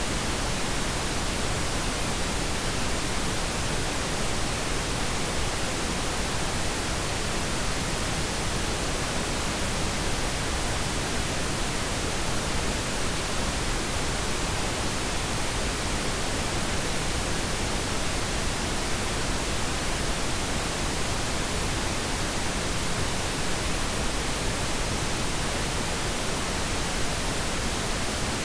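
Synthetic pink noise: a steady, even hiss spread across the whole range from low to high, unchanging throughout.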